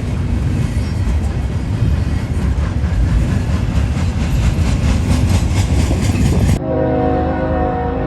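Freight train passing close by: a loud, heavy rumble with a steady clatter of wheels over rail joints. About six and a half seconds in it cuts off suddenly and a sustained chord of several steady tones takes over.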